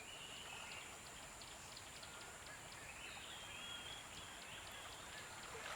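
Faint nature-sound backdrop: birds calling with short high chirps over a soft, steady outdoor hiss, with scattered small ticks.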